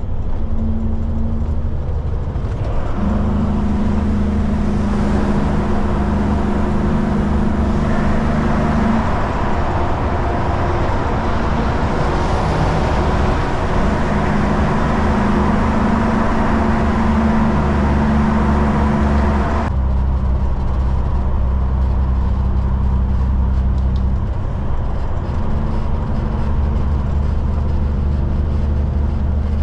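Kenworth K200 cabover's Cummins diesel engine running while the truck is driving, its hum stepping to a new pitch every few seconds, over steady road noise. The hiss drops away suddenly about two-thirds of the way through.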